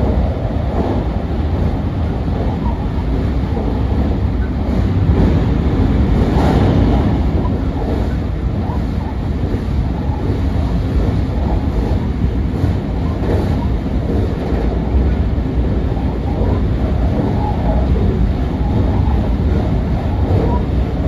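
Train running steadily across a steel truss bridge, heard from inside the passenger car: a continuous low rumble of wheels on rail.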